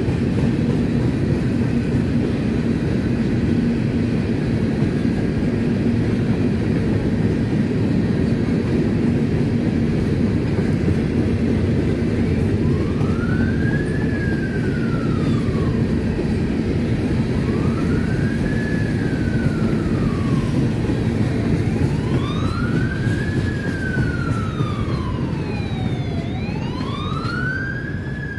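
Steady low rumble of a passing train. From about halfway through, an emergency vehicle's wail siren rises and falls in slow cycles of roughly four and a half seconds.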